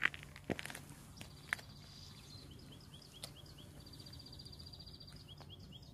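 Faint birdsong: a run of short high chirps, with a rapid high trill about four seconds in. A few soft clicks in the first second and a half.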